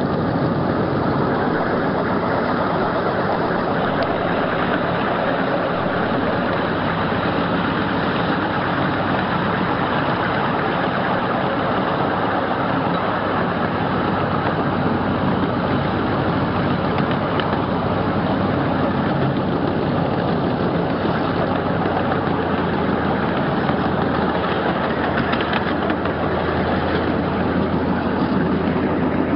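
A 12-inch gauge riding train on the move: steady rumble of the cars rolling along the rails with the locomotive running, recorded from aboard a passenger car. A low drone grows stronger in the last few seconds.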